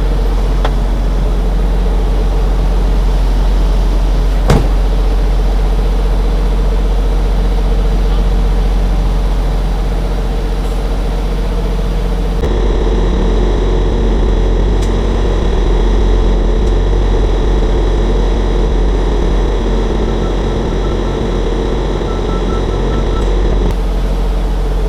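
Semi-truck diesel engine running steadily, heard from inside the cab, with a single sharp click about four seconds in. About halfway through, the background changes character, and near the end there is a faint string of short beeps.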